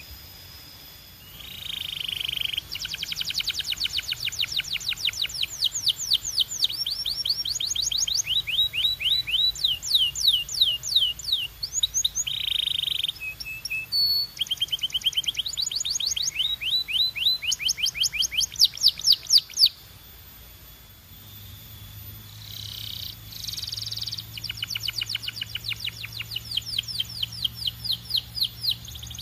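Belgian canary singing: fast trills of repeated sweeping notes, phrase after phrase, with a brief pause about two-thirds of the way through.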